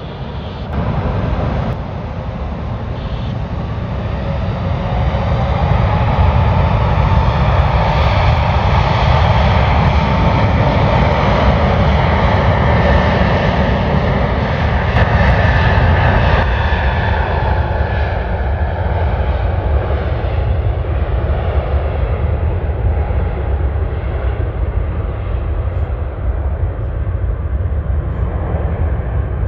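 Jet airliner passing close by: the engine rumble and whine build, peak, then slowly fade as the engine tones fall in pitch.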